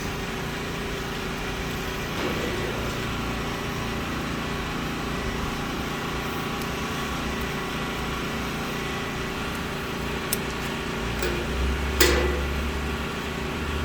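Steady mechanical hum, even in level throughout. Near the end come a few faint clicks, then one sharp crackle.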